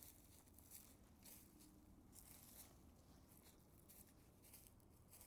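Faint, irregular rustling and scuffing, a couple of soft scrapes a second.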